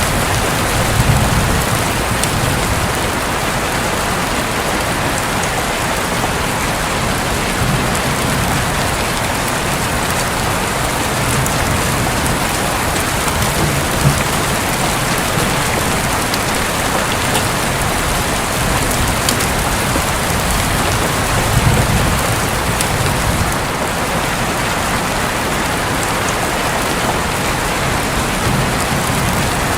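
Steady rain falling on a roof in a dense, even patter, with soft low thunder rumbles swelling up a few times, the strongest about a second in and around twenty-two seconds in.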